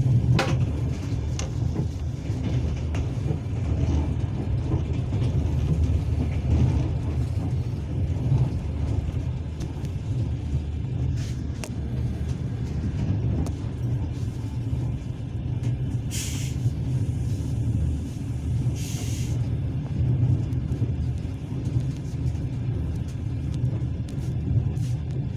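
Steady low rumble of a moving passenger train heard from inside the carriage: wheels running on the track, with occasional faint clicks. Two short hisses come a few seconds apart, past the middle.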